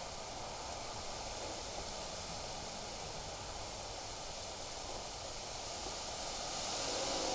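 Steady wind hiss with leaves rustling, swelling slightly near the end.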